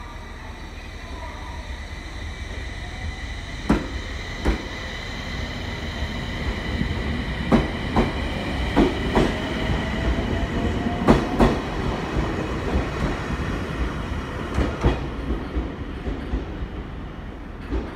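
Aoimori Railway 703 series electric train pulling out and passing: its wheels click over rail joints, mostly in quick pairs, over a steady high whine. It grows louder through the middle, then fades near the end.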